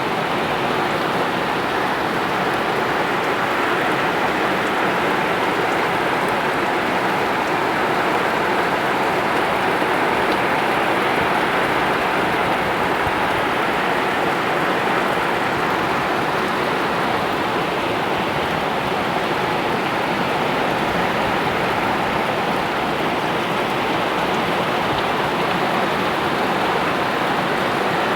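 Steady heavy rain falling and pattering on surfaces, a constant even hiss.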